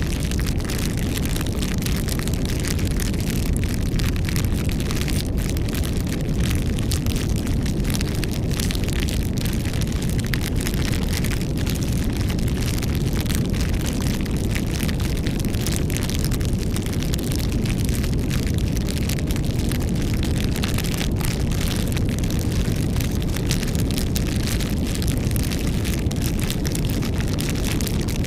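Campfire burning: wood crackling and popping constantly over a steady low rumble.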